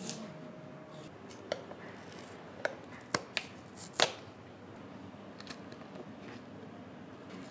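A few sharp clicks and taps, about six over the first four seconds, the loudest about four seconds in, then only faint small ticks.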